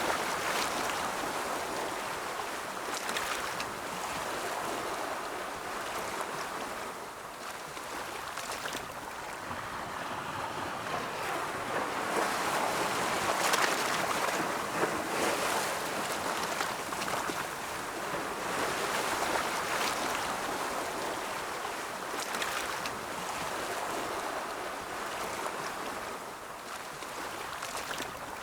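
Ocean surf: waves rolling in and breaking, a continuous rushing wash that swells and eases, loudest about halfway through.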